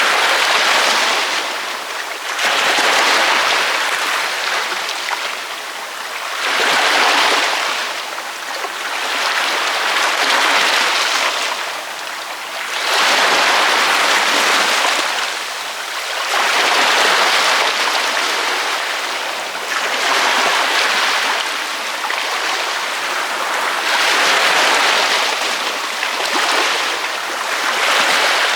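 Ocean waves breaking on a beach: a wash of surf that swells and fades again every three to four seconds.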